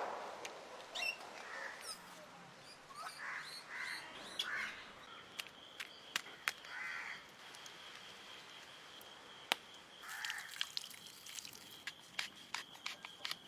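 Several short bird calls spaced a second or more apart in an outdoor setting, with scattered light clicks and a steady high thin tone coming in about four seconds in.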